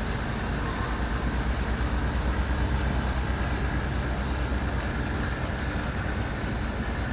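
Steady low rumble of boat engines running, with a fast, even low pulsing throughout.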